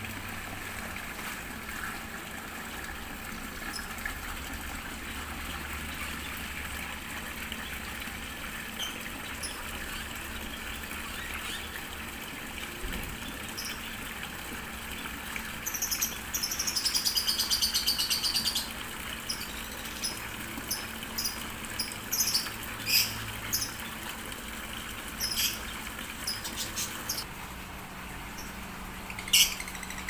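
Small cage birds chirping high and sharp: a fast run of chirps about halfway through, then scattered single chirps. Under them runs a steady splash of water from a small garden waterfall into a pond, with a faint low hum.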